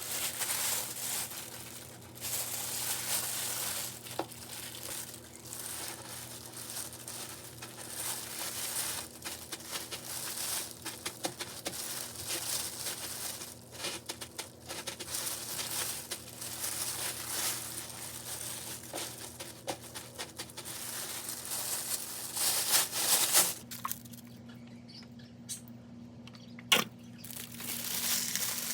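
Food-preparation handling sounds: continuous crinkling and rustling with scattered light clicks and taps, quieter near the end with a sharp tap or two.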